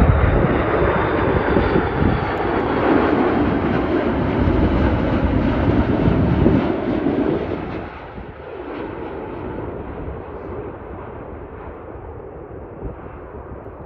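Airbus A330-300 jet airliner on arrival: loud engine and airflow noise with a deep rumble as it passes, dropping away about seven to eight seconds in and then slowly fading.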